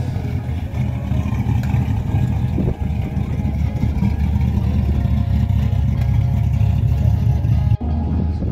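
Car engine running with a deep, steady low rumble. It breaks off sharply near the end, then carries on.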